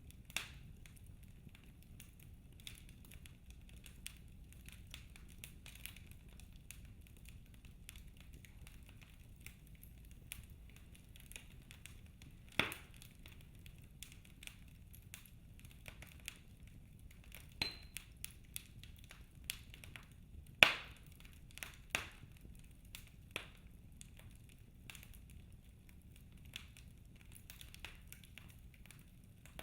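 Wood fire crackling in a fireplace: scattered sharp pops and snaps at irregular intervals over a faint steady hiss. The loudest pops come about a third of the way in and again about two-thirds through.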